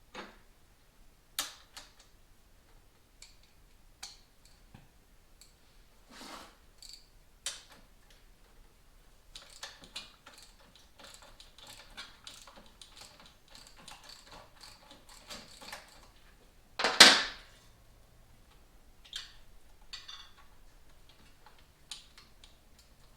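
Hand tools and metal parts clicking and clinking as parts are taken off a motorcycle, with scattered single clicks, a long run of rapid small clicks in the middle, and one loud clank about 17 seconds in.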